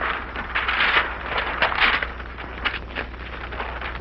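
Wrapping paper being handled, rustling and crinkling in irregular bursts, over a steady low hum and crackle from an old film soundtrack.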